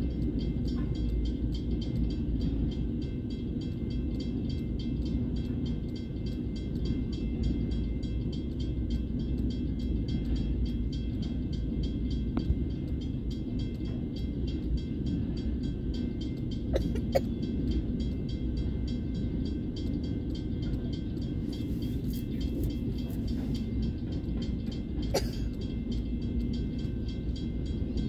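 Empty freight wagons rolling past over a level crossing, with a steady rumble of steel wheels on the rails and a few sharp clacks about two-thirds of the way through. A level-crossing bell rings steadily above the rumble.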